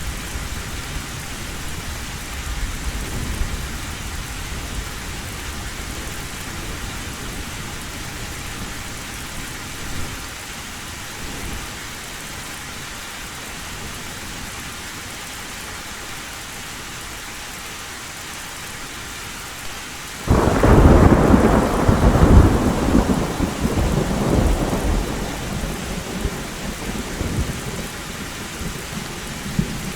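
Heavy rain drumming steadily on a metal tin roof, with low thunder rumbling faintly near the start. About two-thirds of the way through, a sudden loud thunderclap breaks out and rolls on, fading over several seconds.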